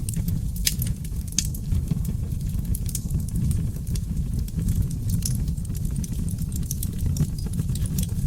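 Seasoned oak logs burning in a fireplace: a steady low roar of flames with frequent, irregular sharp crackles and pops.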